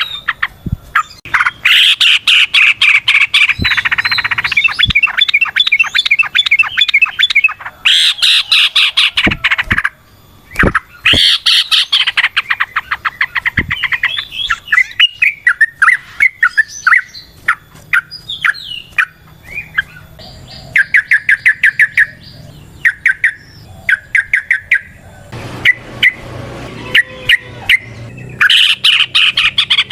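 Yellow-vented bulbul singing its loud, bubbling song in repeated bouts of rapid chattering notes, each a second or two long, with shorter scattered chirps between them.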